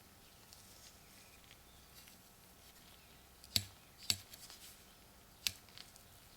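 Small hard objects handled on a work surface: faint room tone, then a few sharp clicks and taps in the second half, three of them louder than the rest.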